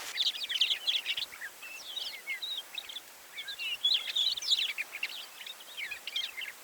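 Songbirds chirping and twittering: a busy run of short, quick, varied high notes with little pauses, over faint outdoor hiss.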